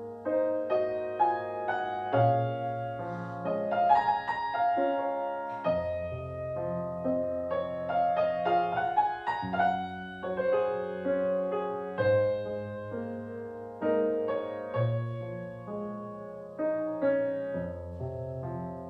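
Instrumental music on piano: chords and melody notes struck one after another over sustained low bass notes.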